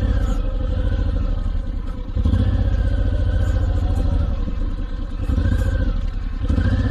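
Honda VTX1800C's big V-twin engine idling with a steady low beat, swelling louder a few times.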